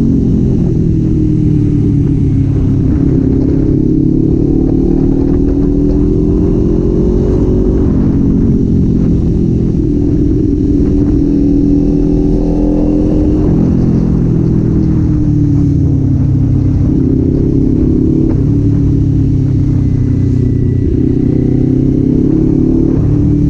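Kawasaki Z400 parallel-twin engine running under way, heard from the rider's seat, its note falling and climbing again several times as the revs change.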